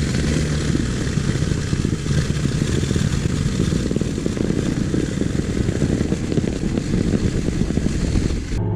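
Excavator engine running steadily under work, a dense mechanical drone that cuts off abruptly near the end.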